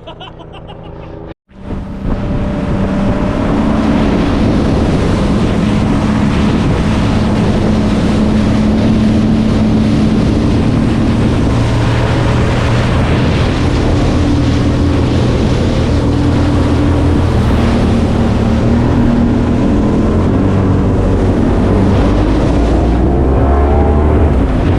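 Speedboat engine running at speed, with wind and water noise. It starts abruptly about a second and a half in and then holds steady.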